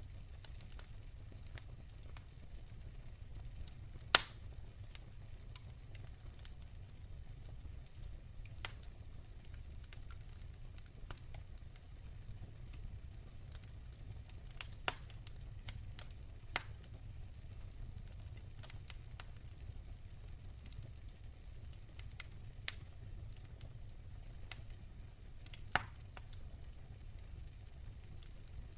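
Campfire burning with a low steady rumble and irregular sharp wood pops and crackles, the loudest pop about four seconds in and another strong one near the end.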